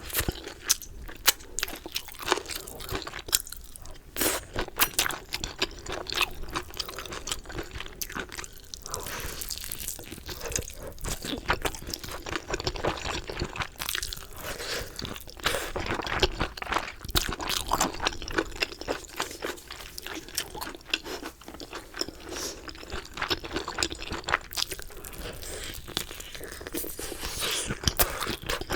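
Close-miked chewing of Galbi Leo chicken: a steady run of irregular crunches and wet crackles as bites of the coated chicken are chewed.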